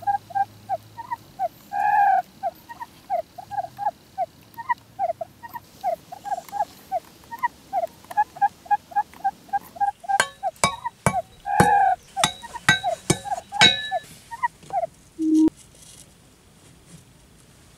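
An animal calling in a long run of short, repeated notes, about three a second, with a few longer, louder calls; a handful of sharp wooden clicks and knocks come past the middle, and the calls stop a couple of seconds before the end.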